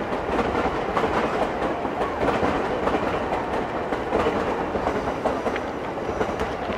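Green-and-orange striped JR commuter electric train running past, its wheels clacking over the rail joints. The sound eases a little near the end as the train moves away.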